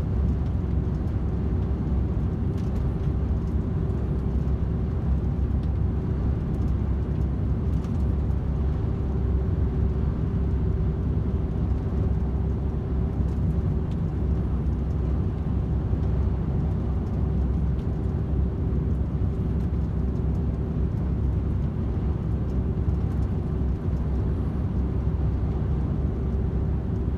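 DAF XF 510 truck's engine and tyre noise heard inside the cab while cruising steadily on a motorway: an even low rumble with a steady hum.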